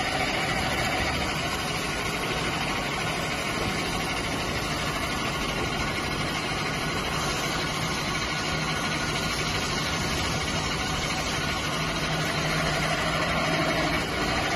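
Plastic pipe perforating machine running, a steady mechanical hum and rumble with no distinct strokes or pauses.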